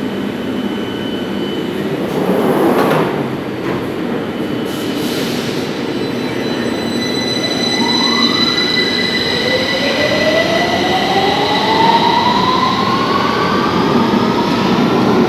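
London Underground Victoria line 2009 Stock train pulling away, its traction motors giving a whine that rises slowly in pitch as it accelerates, over steady wheel-on-rail noise. A brief loud rush comes about two seconds in.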